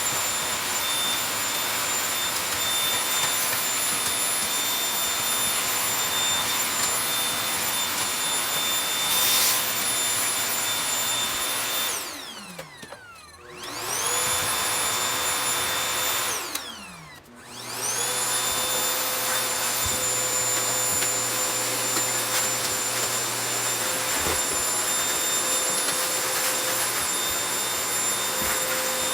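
Household vacuum cleaner running with a steady motor whine. It is switched off twice, about twelve and sixteen seconds in, its pitch falling as the motor winds down, and each time started again about a second later, the whine rising back up.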